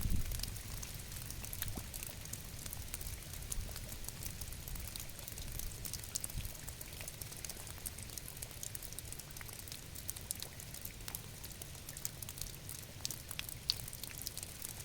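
Steady rain, with many individual drops ticking sharply on a surface over a low continuous rumble. A single louder knock right at the start.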